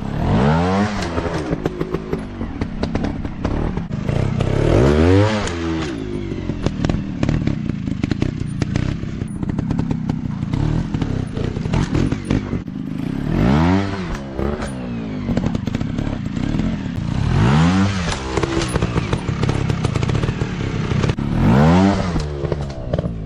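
Off-road dirt bike engine running under rough riding, revved up and backed off about five times, each burst a quick rise and fall in pitch, over steady clattering noise.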